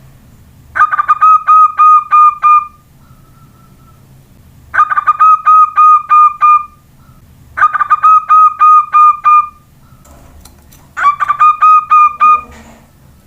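Zebra dove (perkutut) cooing: four phrases of quick, rapidly repeated notes, each about two seconds long, with a few seconds' pause between them.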